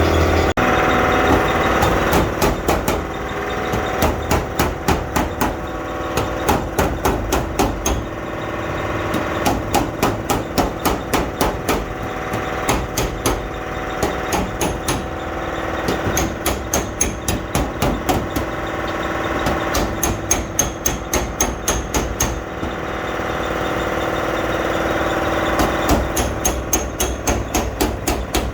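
Hammer blows on car body sheet metal during dent repair. The blows come in quick runs of about three to four a second, with short pauses between runs, over a steady machine hum.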